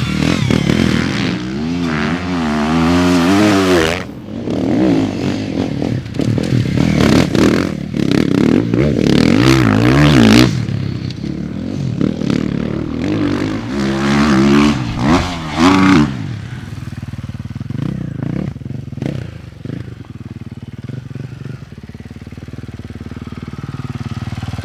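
A 450 four-stroke motocross bike's engine revving hard and backing off again and again as it is ridden around a dirt track. The loudest runs come about two seconds in, near the middle and about two-thirds through, and it settles lower and steadier towards the end.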